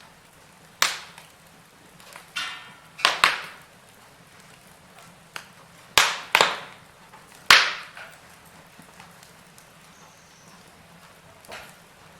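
Wood fire in a fireplace crackling, with about seven sharp pops and cracks, several coming in quick pairs, over a faint steady hiss.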